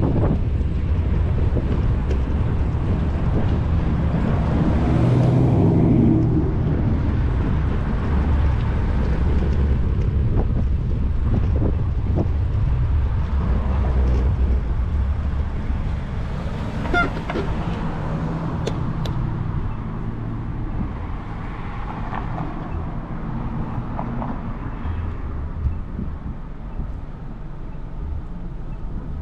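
Wind rumble and road noise on a bicycle-mounted action camera while riding, with car traffic going by. A few sharp clicks come about two thirds of the way through, and the rumble eases off in the later part.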